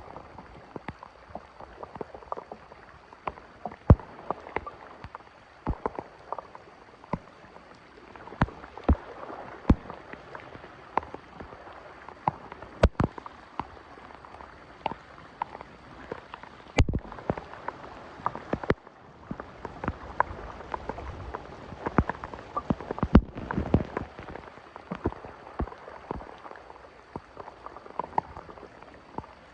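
Rain falling on water and wet ground: a steady wash of noise with many irregular drops and taps, and a couple of louder knocks.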